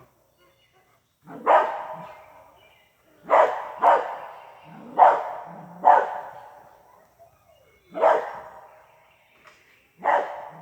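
A dog barking repeatedly, about seven loud barks at uneven gaps of half a second to two seconds, each trailing off.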